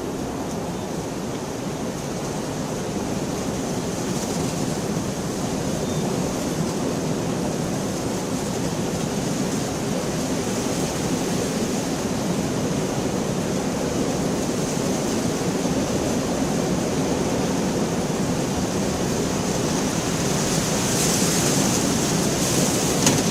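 Steady rain falling, a dense even hiss with a heavy low body, slowly growing a little louder toward the end.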